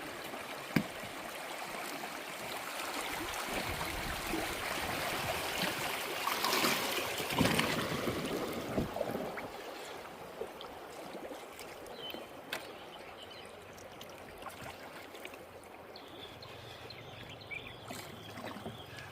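River water rushing and gurgling around a bamboo raft as it drifts downstream. The water grows louder for a couple of seconds about a third of the way in, then eases, with a few sharp knocks.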